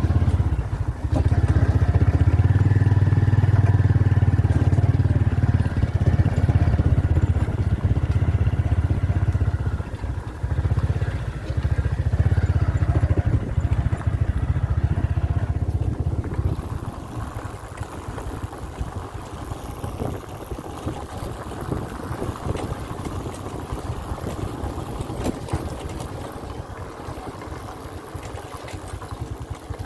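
Engine of a moving vehicle running during a ride, a strong low drone with road and wind noise. About 17 seconds in the drone drops away and the sound becomes quieter and hissier.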